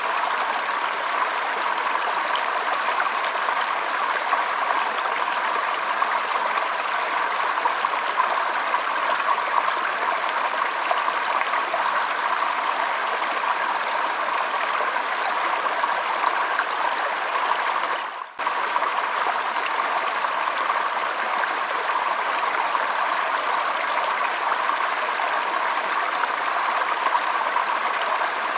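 Shallow stream trickling and babbling steadily, with one momentary dip in the sound a little past halfway.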